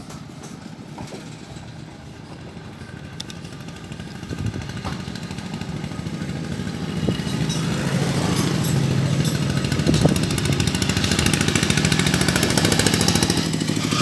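Motorcycle engine running, getting steadily louder from about four seconds in, with a few light clicks.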